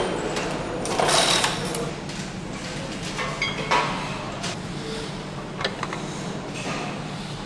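Engine assembly line workshop noise: a steady machine hum with several short rushing bursts and a few sharp metallic clicks and knocks.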